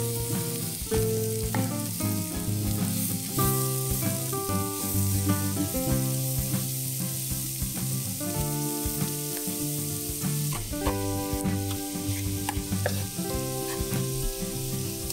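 Chopped garlic, dill and parsley sizzling steadily in hot olive oil in a nonstick frying pan, stirred with a wooden spatula.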